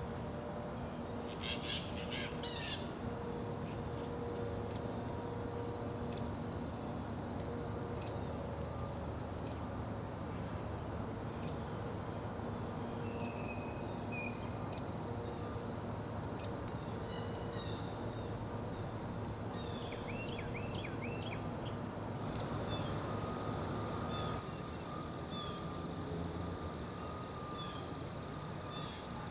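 Outdoor ambience of scattered short bird chirps and calls over steady low background noise, with a steady high insect drone, like crickets, setting in about two-thirds of the way through.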